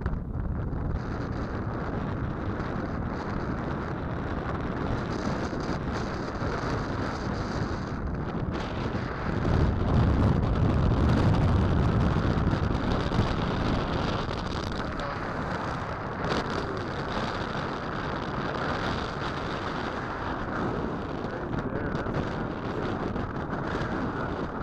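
Strong wind buffeting the microphone in a steady rush, with a louder gust about ten seconds in.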